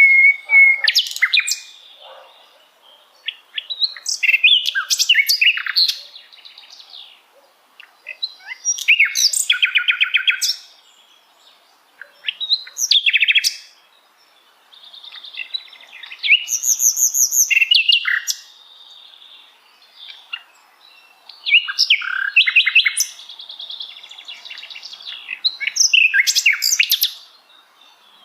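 A sikatan londo, a flycatcher, singing. It gives phrases of rapid, varied high-pitched trills, chirps and whistles, each lasting one to two seconds, with short pauses between them.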